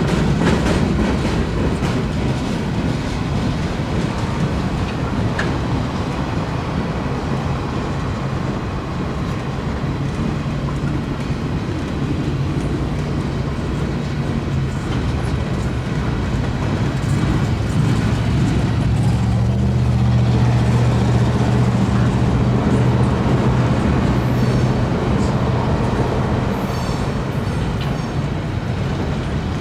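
CSX manifest freight train's cars rolling through a grade crossing, steel wheels clattering and rumbling over the rails. A steady low hum grows louder in the second half.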